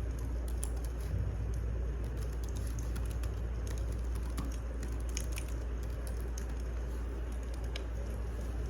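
Wood fire burning in a fireplace: scattered, irregular crackles and pops over a steady low rumble.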